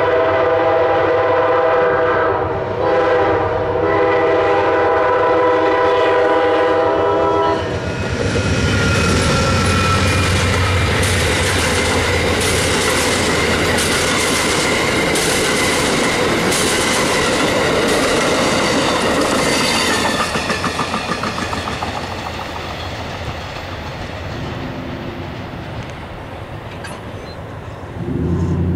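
An Amtrak passenger train led by a GE P42DC locomotive sounds its chime horn: a long blast, a brief break, then another long blast that ends about seven seconds in. The train then passes at speed, its wheels clicking rhythmically over the rail joints, and the sound fades away in the last several seconds.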